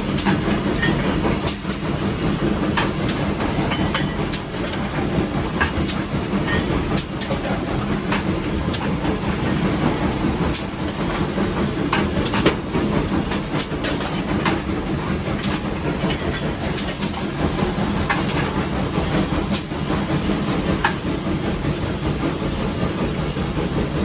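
Steam locomotive No. 81 running, heard from inside its cab: a steady heavy rumble and hiss with sharp, irregular clanks and clicks all through.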